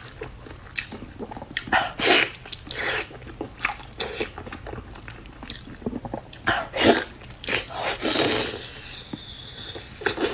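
A person chewing and biting meat, with irregular mouth noises coming every second or so and a few louder bites.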